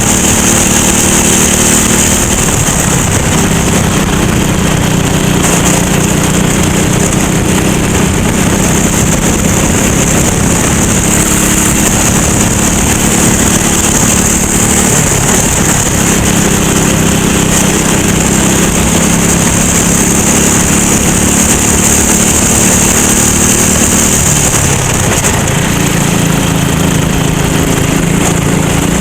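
Racing kart engine running hard under load, its pitch dipping briefly and climbing back three times: about three seconds in, midway, and near the end.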